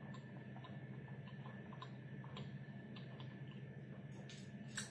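Faint chewing of a shawarma wrap: soft, irregular small mouth clicks over a steady low hum, with one slightly sharper click near the end.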